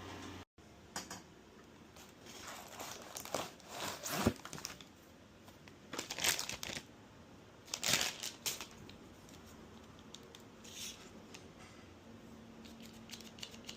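Crinkling and rustling handling sounds in several short, scattered bursts, with the loudest about three to eight seconds in.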